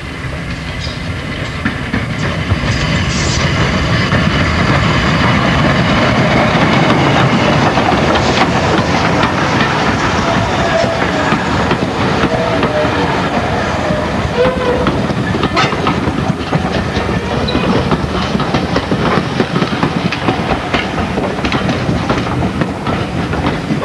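Steam-hauled passenger train passing close by. The sound rises over the first few seconds as it approaches, then the coaches' wheels clatter steadily over the rail joints, with a faint wavering squeal in the middle. It cuts off suddenly at the end.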